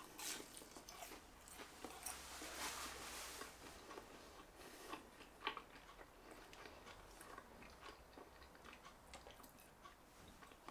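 Faint biting and chewing of a crisp-crusted grilled cheese patty: soft crunches and small wet mouth clicks, scattered through the chewing.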